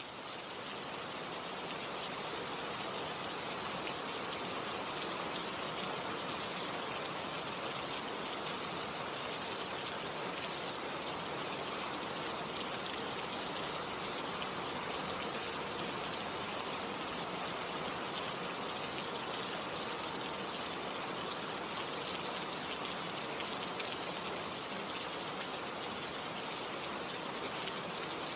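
Steady rainfall: an even, dense hiss of falling drops with scattered sharper drop ticks, swelling in over the first couple of seconds.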